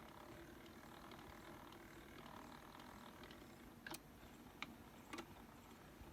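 Near silence: faint steady room tone, with three soft clicks in the second half, a little over half a second apart.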